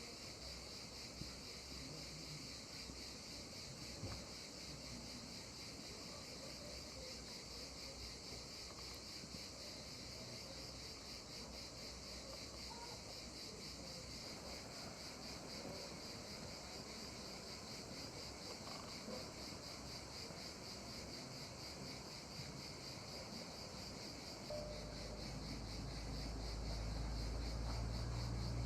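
Crickets chirping in a steady, rapidly pulsing chorus. A low hum comes in near the end and grows slightly louder.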